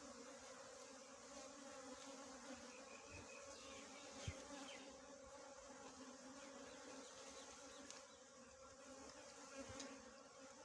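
Small honeybees buzzing: a faint, steady drone that holds one pitch, with a single soft knock about four seconds in.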